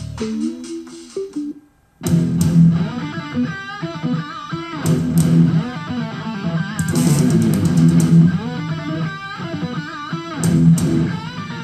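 Music playing over Bluetooth from a phone through a GPO Brooklyn portable boombox's speakers. About two seconds in, the track skips: a brief silent gap, then a guitar-led rock track with electric guitar and bass starts abruptly and plays on.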